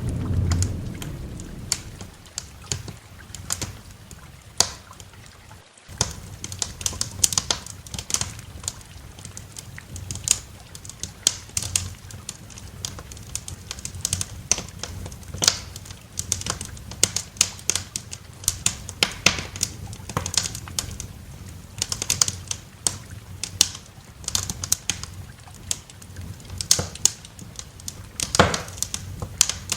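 Wood fire crackling in a fireplace, with irregular sharp snaps and pops throughout, over a soft steady hiss of rain. A thunder rumble dies away in the first couple of seconds, and the sound cuts out for an instant about six seconds in.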